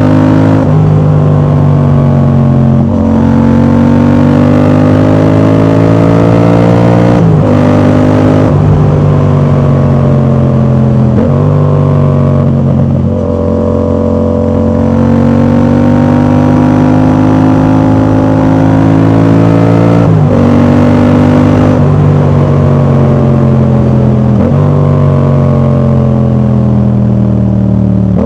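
Yamaha MT-07 parallel-twin engine running through an aftermarket exhaust with its dB killer fitted. It is ridden hard, with engine speed gliding up and down and sudden pitch jumps about every few seconds as it changes gear.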